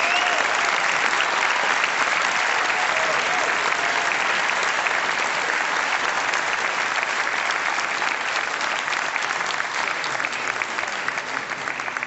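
Audience applauding, a dense wash of clapping that thins out and dies down over the last few seconds.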